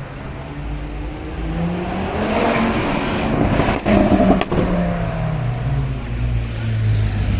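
A car's engine accelerating past under load, its note rising and growing louder to a peak about four seconds in. Two sharp cracks come close together at the loudest point, then a lower, steadier note as it goes by.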